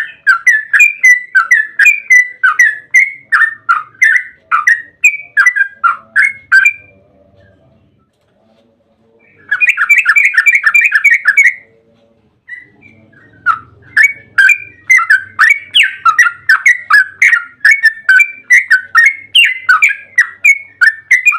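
Yellow-vented bulbul (trucukan) singing long, fast runs of loud chattering notes, about three a second. It sings three phrases with short pauses between them; the middle phrase is brief and tightly packed.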